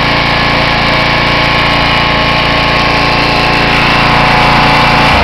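Small gasoline engine of a Simoniz 2350 PSI pressure washer running steadily, then switched off near the end, its note breaking off as it begins to wind down.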